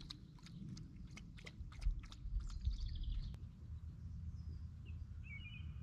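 Faint birdsong in open countryside, with short chirps about two and a half seconds in and again near the end. A scatter of small sharp clicks runs through the first three seconds, with a low rumble about two seconds in.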